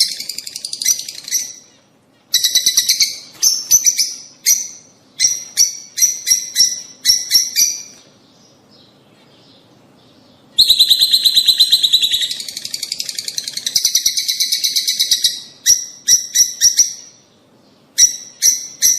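Lovebirds chirping and chattering in rapid, shrill bursts. A short lull is followed by a long unbroken run of chatter about halfway through, then more short bursts.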